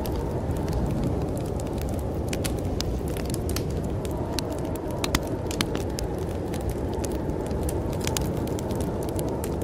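Fireplace fire crackling with irregular sharp pops and snaps over a steady, low rumble of snowstorm wind.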